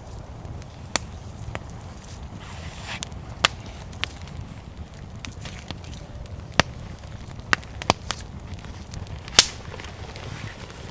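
Wood fire crackling, with about eight sharp, irregular pops and snaps over a low steady rumble, the loudest about nine seconds in.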